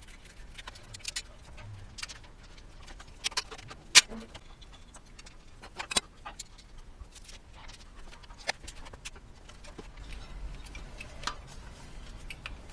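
Scattered light clicks and clinks of metal tools and fittings being handled while wires and hoses are disconnected in a car's engine bay. Sharp, separate ticks every second or so, the loudest about four and six seconds in, over a quiet background.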